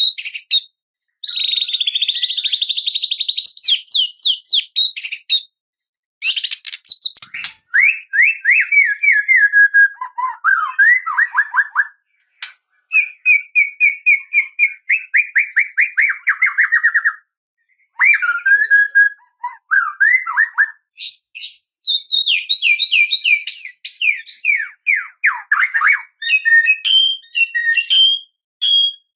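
White-rumped shama (murai batu) singing a long, varied song of fast trills and rapid repeated-note phrases, some sliding down in pitch, with short pauses between phrases.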